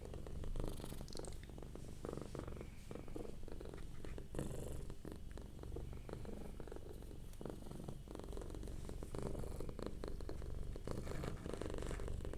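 Domestic cat purring close to the microphone, a continuous low rumble in rapid fine pulses that swells louder several times.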